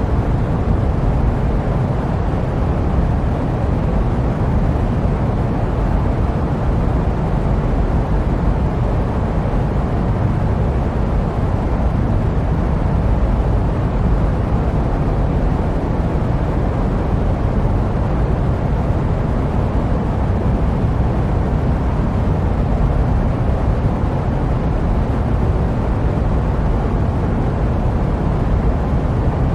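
Jet aircraft noise: a steady, deep rumble that tapers into a soft hiss, unchanging throughout, looped as white noise for sleep.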